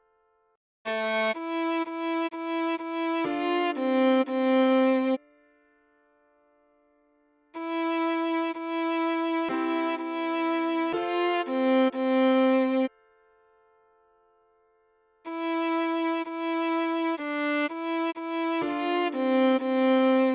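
Solo viola playing a slow melody in three short phrases of separate notes, each phrase a few seconds long, with pauses of about two seconds between them.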